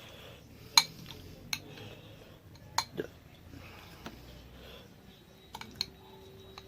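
Eating sounds at a meal: about six short, sharp clicks and clinks of plate and utensils over a low background, the loudest about a second in.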